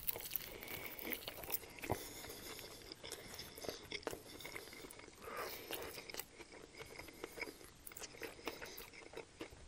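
Close-up eating sounds of a man biting into and chewing a panko-crusted fried chicken sandwich with bacon on a toasted bun: a stream of small, sharp crunches and clicks.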